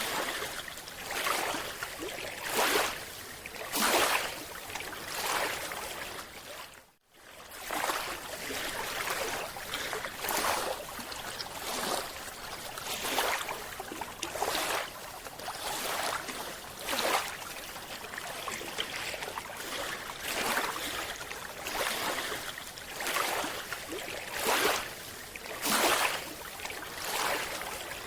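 Underwater water noise: rushing, bubbling surges that repeat about every second and a half, with a brief break about seven seconds in.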